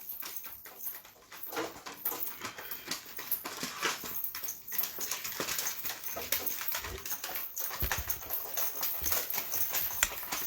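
Irregular rustling, scratching and light tapping of domestic pigeons moving about, with a couple of low thuds past the middle.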